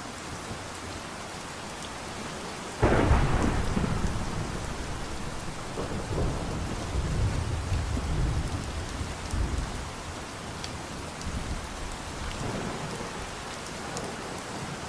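Steady rain falling. About three seconds in, a sudden loud clap of thunder breaks out and rumbles on in uneven swells for several seconds before dying away under the rain.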